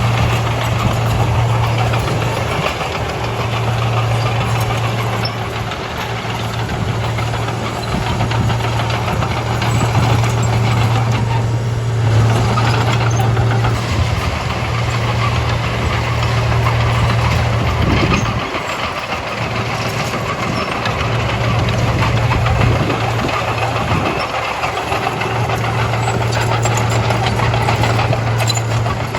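Komatsu D31A crawler bulldozer's diesel engine running with a steady, deep drone that dips briefly a few times.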